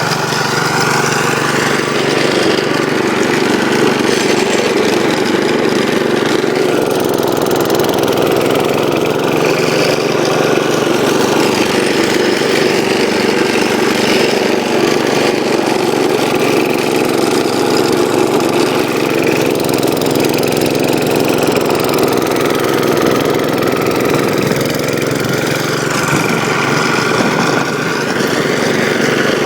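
1972 Gravely Commercial 12's Kohler engine running steadily, driving a 34-inch snow blower.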